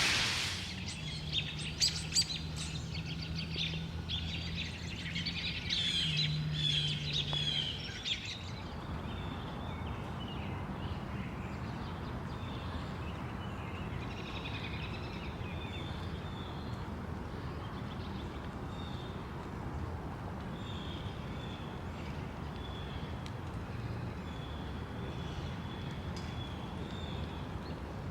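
Small birds chirping in short repeated calls over a steady outdoor hiss. For the first eight seconds a run of dry crackling clicks and a low steady hum sit under the calls.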